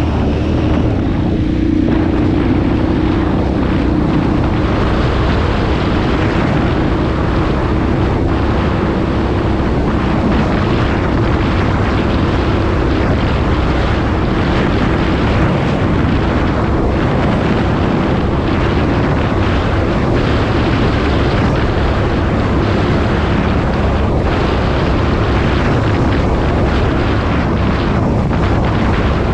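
KTM 990 Adventure's LC8 V-twin engine running steadily under load, its note wavering slightly, with heavy wind buffeting the microphone.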